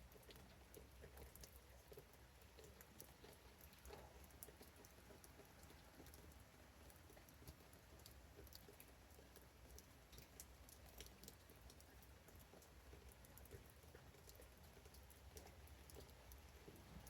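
Faint rain patter: scattered raindrops tapping irregularly, over a low steady hum.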